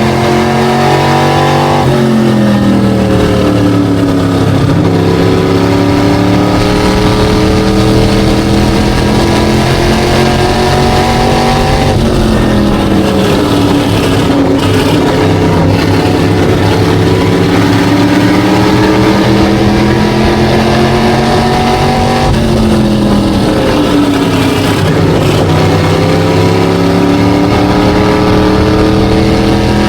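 SK Light modified race car's V8 engine running hard on an oval. The pitch climbs steadily down each straight, then drops sharply as the throttle is lifted for a turn, three times about ten seconds apart.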